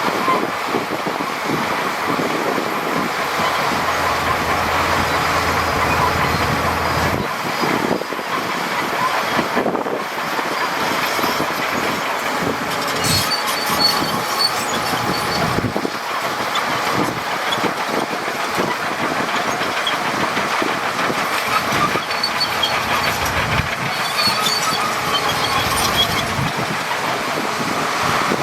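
Shantui crawler bulldozer working, its engine running under a steady clatter of steel tracks, with high track squeals about halfway through and again near the end.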